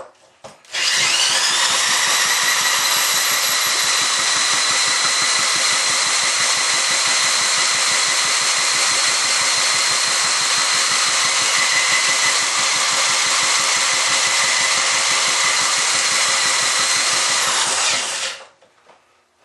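Electric motor whining steadily as it spins an antique Ironhorse gas engine over. It winds up about a second in and winds down near the end. The engine does not fire, which the owner puts down to too little spark.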